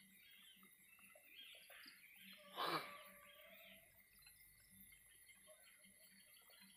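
Near silence with faint, scattered bird chirps, and a brief rush of noise about two and a half seconds in.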